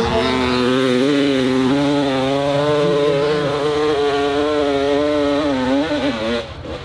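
Dirt bike engine held at high, steady revs under load for about six seconds, its pitch wavering slightly, then dropping off sharply near the end.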